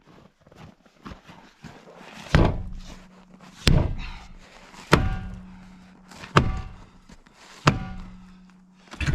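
Steel wheel rim being struck hard five times, about one and a quarter seconds apart, each blow ringing on after it with a low hum: knocking a wheel that had seized on its hub loose.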